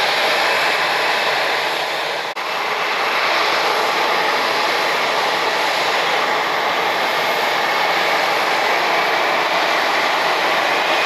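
Jet airliner engines running with a steady, loud hiss, cut by a momentary drop-out a little over two seconds in.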